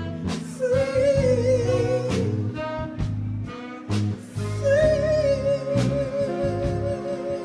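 Live jazz-soul band music: a woman sings long held notes with a wide vibrato, over a low bass line and regular drum and cymbal hits.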